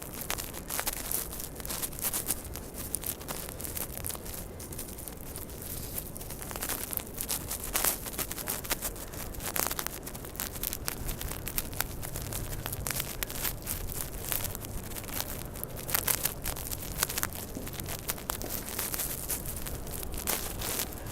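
Street noise in a blizzard: a steady rushing haze with many irregular crackles and rustles, and a faint low hum in the middle stretch.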